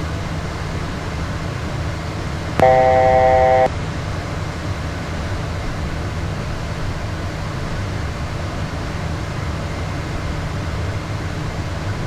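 Steady low cockpit hum of a Beechcraft Premier 1A business jet in descent. About two and a half seconds in, a loud electronic tone sounds for about a second and cuts off sharply, a cockpit alert tone.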